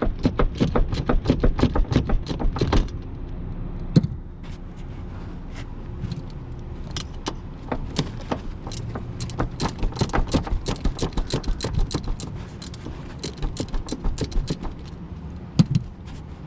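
Hand ratchet clicking in quick runs as the shock absorber's lower mounting bolts are worked loose, with a short rattle of metal in between.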